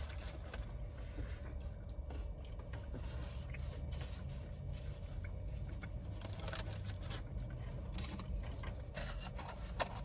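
Soft scrapes and scattered clicks of a utensil in a takeout soup container, with quiet eating sounds, over a steady low rumble.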